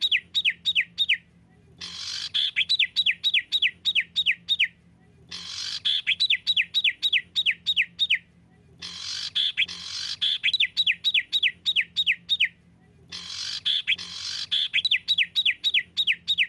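Songbird masteran recording looping one phrase over and over, about every three and a half seconds. Each phrase is a quick run of about eight to ten sharp, downward-sliding whistled notes, the rapid 'tembakan' volley used to train caged birds.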